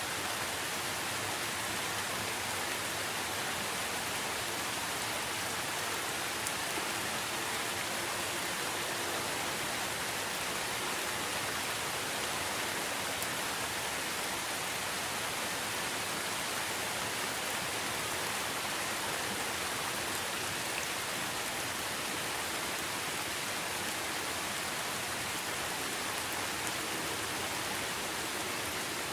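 Steady rain falling: an even, unbroken hiss with no letup.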